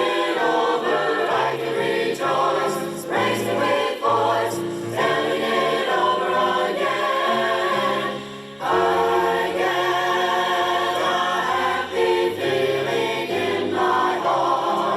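A choir singing a gospel song in harmony, with held notes and a short break about halfway through.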